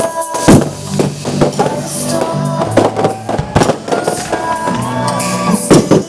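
Fireworks going off in several sharp bangs, the loudest about half a second in and near the end, over loud music playing with a melody and a steady beat.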